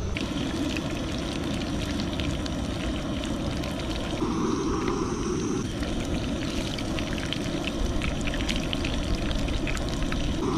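Sheepshead fillets frying in canola oil in a pan: a steady sizzle with many small crackles.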